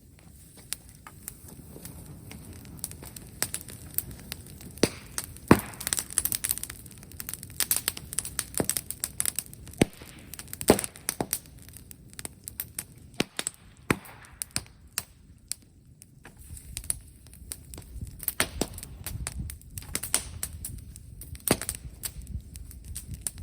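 Brushwood fire crackling, with many irregular sharp cracks and pops.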